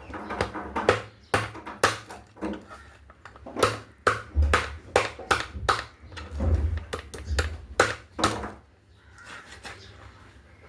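A run of irregular sharp knocks and clatters, roughly two a second, with a few dull low thuds in the middle, fading out near the end.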